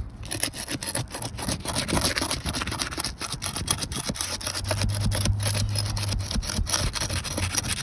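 Steel flat bar prying and scraping under asphalt roof shingles, tearing through the sealant strip to unseal them, with a rapid irregular run of clicks and scrapes.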